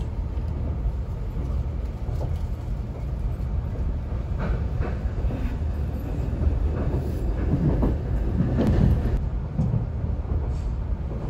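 Blue Symphony limited express train running, heard inside the carriage: a steady low rumble of wheels on rail, with a few short knocks about halfway through and again near the end.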